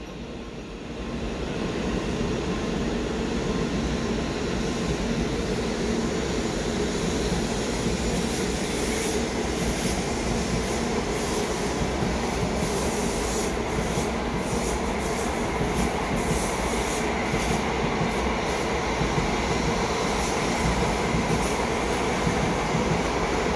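N700-series Shinkansen train pulling out slowly along a station track, its running noise rising about a second in and then holding steady. Over the latter half the wheels click irregularly over the track.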